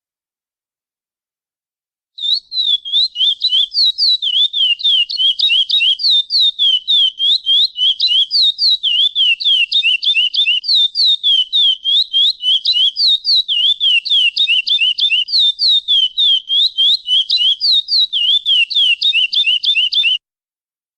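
A curió (chestnut-bellied seed finch) singing a long, rapid series of clear, down-slurred whistled notes, about four a second, starting about two seconds in and stopping just before the end.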